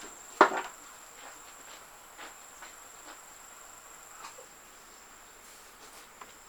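Steady high-pitched insect drone, like crickets, running under the scene. A sharp knock comes about half a second in, followed by a few faint taps.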